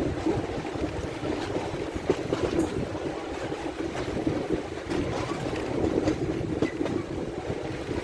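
Passenger train running along the track, a steady rumble with faint ticks of the wheels and rails.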